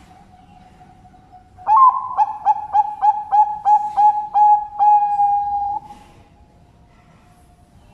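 Zebra dove (Bangkok perkutut) singing a loud cooing phrase: a quick run of about nine short notes, then a held final note about a second long. Other doves coo faintly and steadily in the background.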